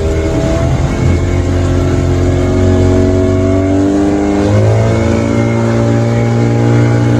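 Motorboat engine running under load. Its pitch creeps up, then steps higher about four and a half seconds in as the engine is opened up.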